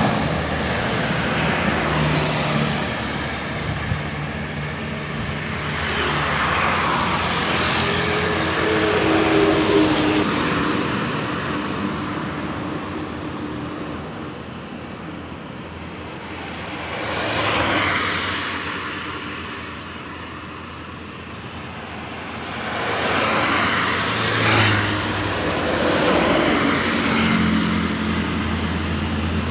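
Road traffic with heavy vehicles such as buses driving past, their engines running; several pass-bys swell up and fade away.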